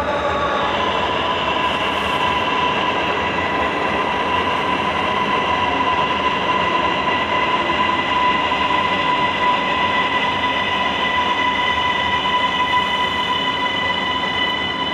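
Ankara Metro train running, a steady electric whine over the rumble of the wheels; the whine slides down in pitch in the first second, then holds steady.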